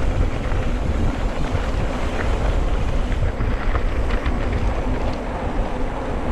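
Wind buffeting the microphone of a camera on a moving bicycle, a steady low rumble with a few faint ticks in the middle.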